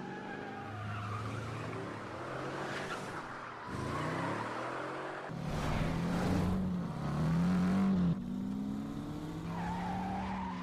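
Car engines revving up and down hard, with tyres skidding. It is loudest from about five and a half to eight seconds in, then drops off abruptly.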